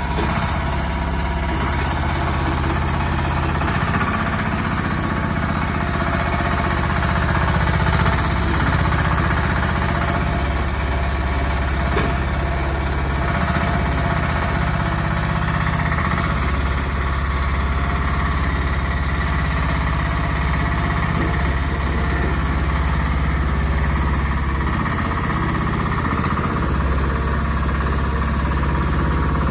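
VTW10 mini excavator's small engine running steadily, with a low, even clatter.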